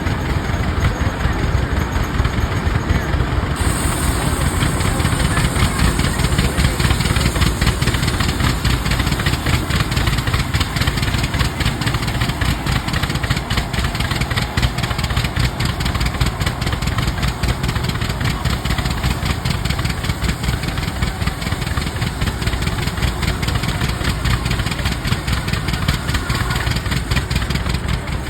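Rumely OilPull tractors' two-cylinder engines running steadily under belt load, a rapid even exhaust beat. A higher hiss joins about four seconds in and carries on.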